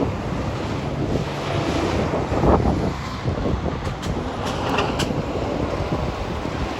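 Wind buffeting the microphone over a steady low vehicle rumble, with a few faint clicks around four to five seconds in.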